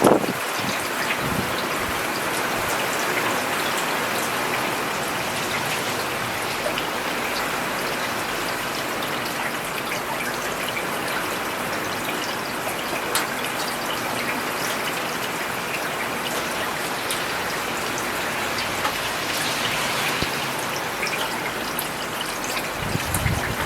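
Steady rain falling on a road, a dense even hiss with countless individual drops ticking. A brief low bump comes right at the start and again near the end.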